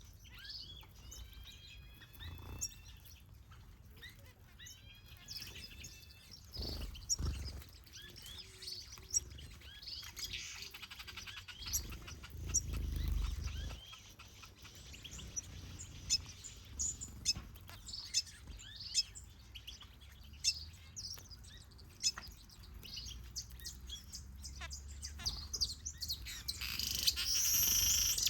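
Small aviary birds, finches and softbills, chirping and calling, with many short overlapping notes and quick repeated note series. A low rumble comes in twice, about a third of the way in and near the middle, and a louder hissing rush builds near the end.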